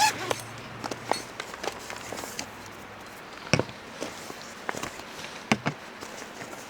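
Scattered sharp clicks and knocks, a loud one about halfway and two close together near the end, over a steady faint hiss.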